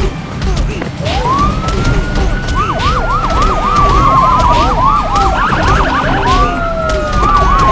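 Emergency vehicle sirens, more than one at once: a slow wail that climbs about a second in and then falls slowly, overlapped by a fast yelp cycling about four times a second. A loud low rumble, like vehicle noise, runs underneath.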